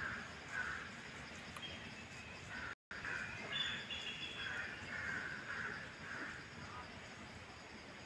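Birds calling: short harsh calls in loose groups of a few, with a brief thin high chirp about three and a half seconds in, over steady outdoor background noise.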